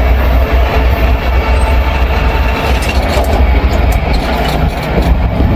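Freight train rolling past close by: a steady heavy rumble of the cars on the rails, with a few sharp clicks about three to five seconds in.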